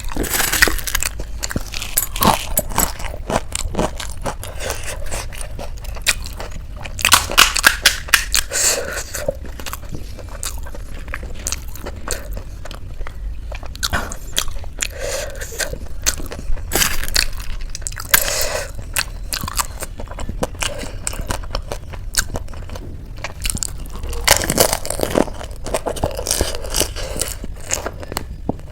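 Close-miked crunchy chaat being bitten and chewed: irregular crisp crunches and crackles with wet mouth sounds, in louder bunches of bites a few times.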